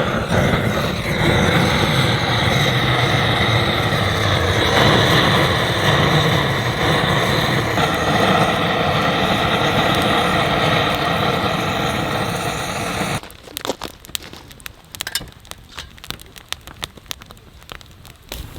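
A loud, steady machine-like rushing sound that cuts off suddenly about 13 seconds in. After it comes the light crackling and popping of burning firewood.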